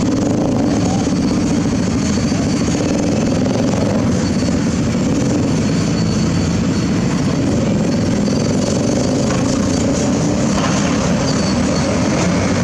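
Excavator's diesel engine running steadily under load, a continuous low drone.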